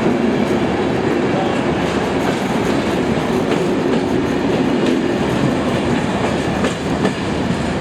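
Turkish State Railways passenger train rolling past with a steady rumble, its wheels clicking over rail joints.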